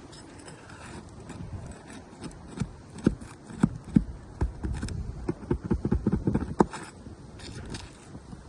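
Irregular knocks and clacks, most closely packed through the middle, over a low rumble.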